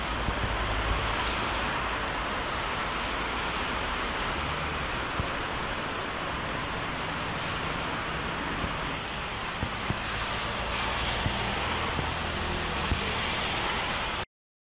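Heavy rain pouring down on a city road while cars' tyres hiss through standing water, a steady dense wash of noise with a low traffic rumble underneath. It cuts off suddenly near the end.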